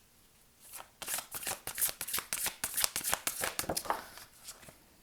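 A deck of oracle cards being shuffled by hand: a quick run of crisp card flicks starting about a second in and tapering off near the end.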